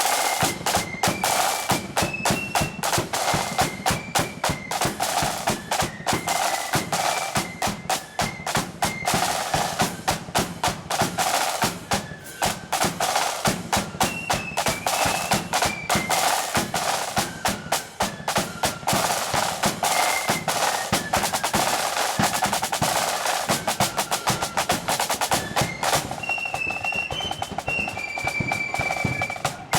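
Marching flute band playing a tune: a stepping melody on the flutes over rapid snare drum rolls and bass drum beats. Near the end the drumming drops back for a few seconds, leaving the flutes holding the tune.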